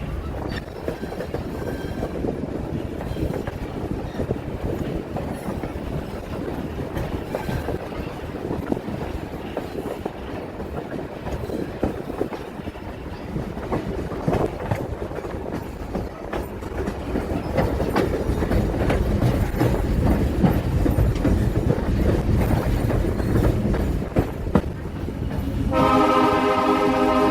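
Excursion train pulled by Alco FPA diesel locomotives rolling along the track, with continuous rumble and wheel clatter that gets louder about halfway through. About a second before the end the locomotive's air horn starts a steady multi-note blast.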